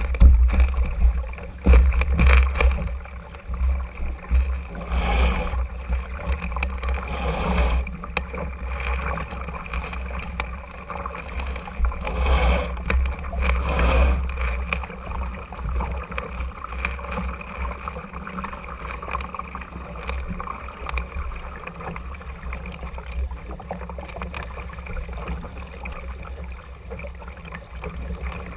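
Water rushing and sloshing along the hull of an RS Tera sailing dinghy under way, over a steady low rumble. Four brief, louder splashes come at about 5, 7.5, 12.5 and 14 seconds.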